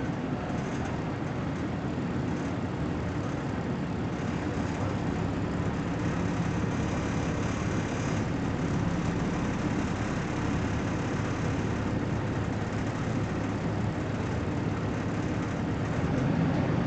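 BMC Belde 220-SLF city bus running steadily under way: an even low engine drone mixed with road noise, with no sharp changes in pitch.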